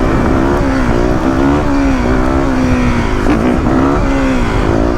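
Motorcycle engine running while riding, its pitch rising and falling a little with the throttle, over steady wind and road rumble.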